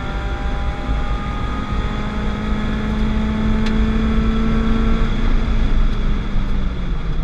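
Peugeot 205 GTI's transplanted 206 RC 2.0-litre four-cylinder engine pulling hard under load, heard from inside the car. The pitch holds fairly steady, creeps up through the middle, and dips briefly right at the end before picking up again.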